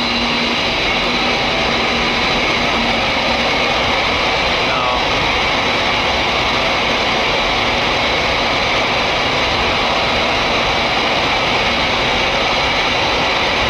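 Large natural-gas-fired commercial steam boilers firing: an even, loud roar of burners and combustion air, with a thin, steady high whine on top.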